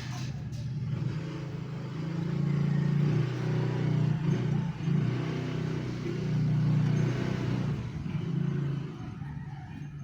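A steady, engine-like motor hum that grows louder for several seconds in the middle, then eases off near the end.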